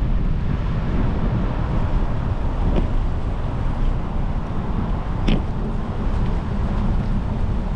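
Wind rumbling on the microphone of a camera riding on a moving bicycle, mixed with road and tyre noise. A couple of short sharp clicks or knocks, about three and five seconds in.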